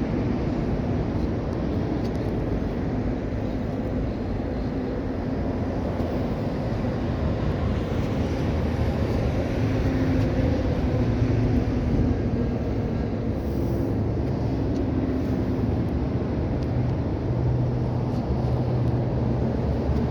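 1967 Oldsmobile 442's 400 cubic-inch V8 running, its pitch rising and falling as engine speed changes.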